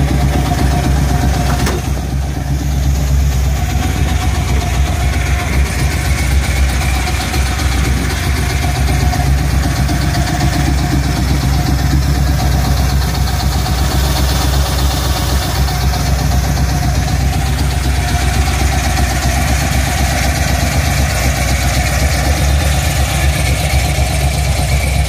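1979 Pontiac Firebird Formula's 468-cubic-inch V8 idling steadily.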